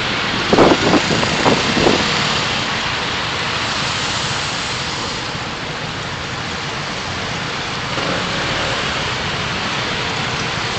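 Steady road and driving noise from a moving car, with a few short knocks in the first two seconds.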